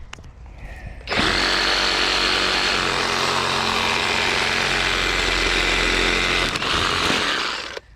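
Skil cordless brushless reciprocating saw cutting through a thick tree branch. It starts about a second in, runs steadily for a little under seven seconds, and stops suddenly near the end.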